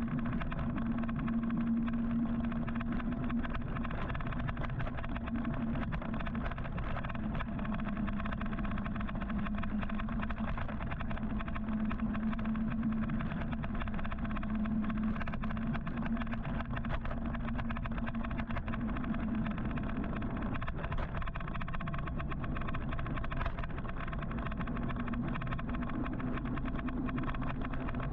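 Steady road and traffic noise heard from a moving electric motorcycle, with a low hum that wavers slightly in pitch.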